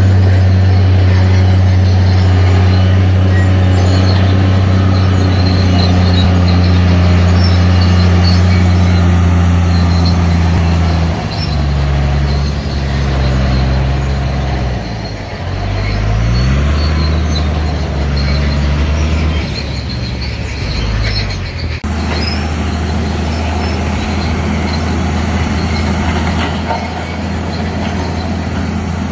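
Heavy diesel engine of earthmoving equipment running steadily under load. Its pitch shifts about halfway through, with one rising rev, and there is high-pitched metallic squealing over it. The sound changes abruptly about 22 seconds in.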